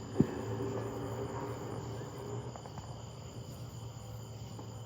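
Crickets chirping steadily in a night chorus, over a low steady hum. A single sharp pop sounds about a quarter of a second in.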